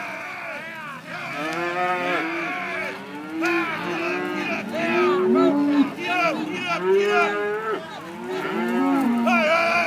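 A herd of cattle mooing and bawling, many calls overlapping and rising and falling in pitch.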